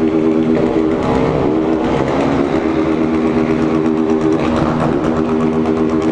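Motorcycle engines running in a large group ride. The engine tone rises and falls with the throttle several times.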